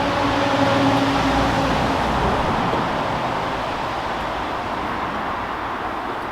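A vehicle passing: a loud rushing noise with a steady tone that fades out about two seconds in, then the rush slowly dies away.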